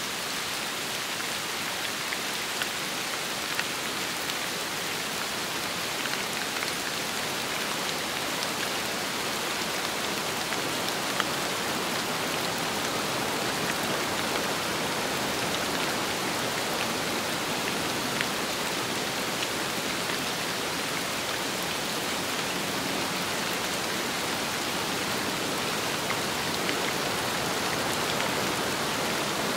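Steady rain falling on a surface, with scattered sharper drop ticks now and then.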